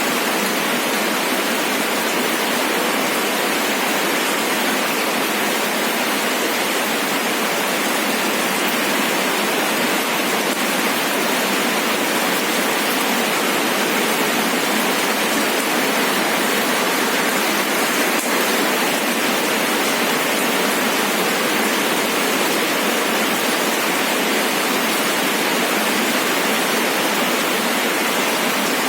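Steady rain falling: a dense, even hiss with no single drops or thunder standing out and no low rumble.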